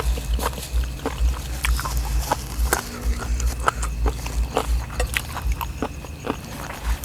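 People eating: irregular sharp clicks and crunches of chewing and utensils, over a low rumble.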